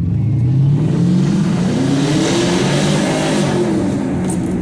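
Car engine accelerating: its pitch climbs steadily for about two and a half seconds, then drops back as it eases off.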